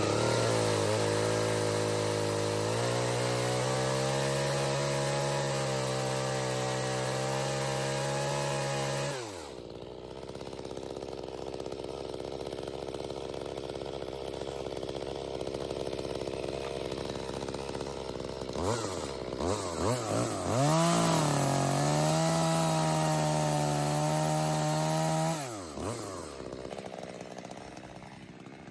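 Two-stroke chainsaw held at high revs with its pitch shifting slightly, then dropping back to idle about 9 seconds in. Near 19 seconds it is blipped a few times, held at high revs again for about five seconds, and released back to idle near the end.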